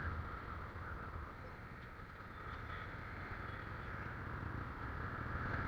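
Steady noise of a motorcycle on the move: a low engine hum under a rush of wind and road noise, growing a little louder near the end.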